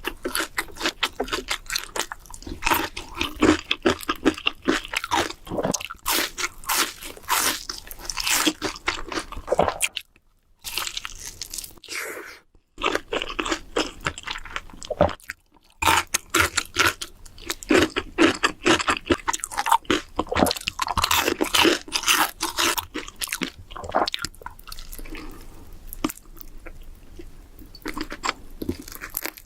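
Close-miked eating of crunchy food: loud, irregular crunching bites and chewing, broken twice or three times by a sudden brief silence.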